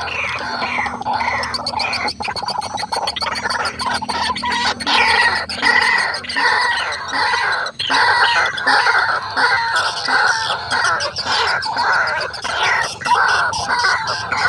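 White-breasted waterhens (ruak-ruak) calling: a dense run of fast, repeated calls, several overlapping.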